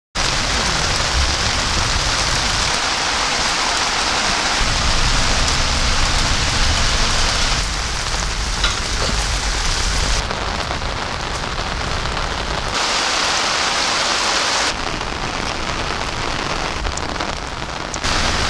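Heavy rain pouring down steadily, its sound changing abruptly every few seconds, in some stretches with a low rumble under it.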